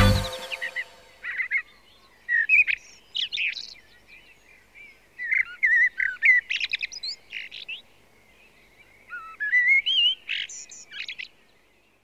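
A songbird singing in short, varied, chirping phrases, about four bursts with pauses between them.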